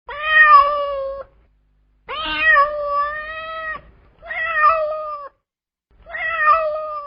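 A domestic cat meowing four times. Each meow is held at a fairly steady pitch for about a second, and the second one is the longest.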